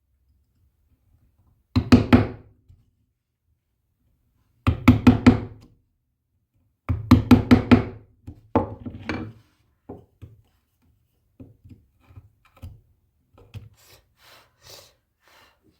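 Rapid knocks on wood in short bursts of three or four strikes, three loud bursts in the first half, then fainter scattered taps and knocks.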